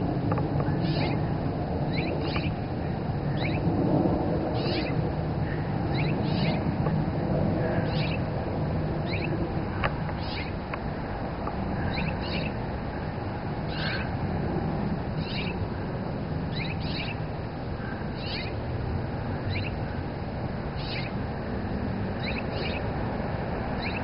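A bird giving short, high, falling calls every second or two, with a mewing quality, over a steady low background rumble.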